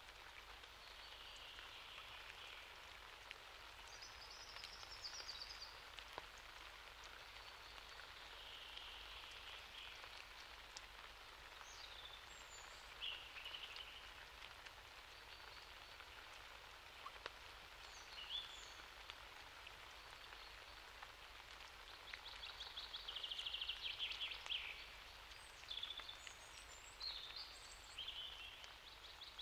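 Faint, steady light rain, with birds calling briefly now and then over it and a rapid trilling call for a few seconds past the middle. No thunder.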